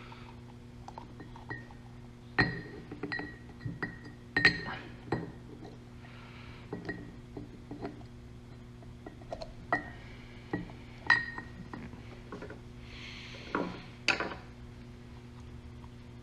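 Metal parts clinking and tapping as a brake caliper piston is worked into a rebuilt caliper past a new rubber seal, with about a dozen sharp clinks that ring briefly and a short scrape near the end. A steady low electrical hum runs underneath.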